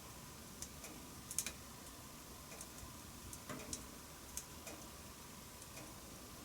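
Wood fire in a stove crackling: irregular, sharp little pops and snaps, the loudest a quick cluster about a second and a half in.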